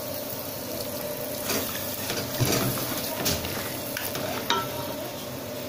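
Marinated chicken pieces frying in a metal pot of onion-tomato masala, stirred with a black spatula: a steady sizzle with a few short scrapes and knocks of the spatula against the pot.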